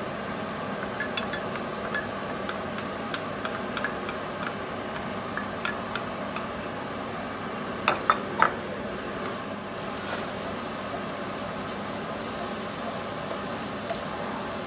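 Chopped garlic, onion and spring onion sizzling in hot oil in a non-stick wok, with a spatula clicking against the pan. Three sharp knocks come about eight seconds in, after which the sizzling turns more crackly as the stir-frying begins.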